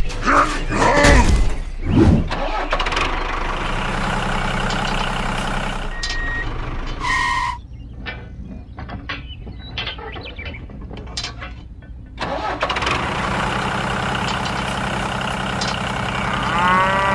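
A vehicle engine running steadily, with a short beep about seven seconds in; the engine then drops away for a few seconds of light clicking and clattering before it starts up again.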